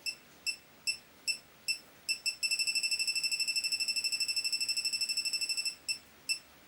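Elitech WJL-6000S refrigerant leak detector beeping steadily at about two and a half high beeps a second, then switching about two seconds in to a rapid, much faster beeping alarm for about three seconds, the sign that it has detected a refrigerant leak, before returning to the slower beep.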